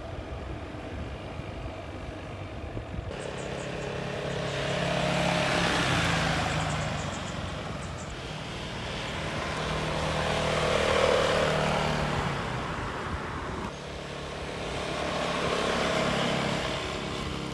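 Motor scooter riding along a road, its single-cylinder engine running steadily under wind and road noise. The noise swells and fades three times, about five seconds apart.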